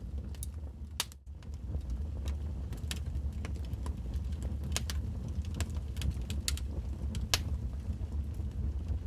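Wood fire burning in a fireplace: a steady low rumble with irregular sharp crackles and pops, one louder pop near the end. The sound drops out briefly about a second in.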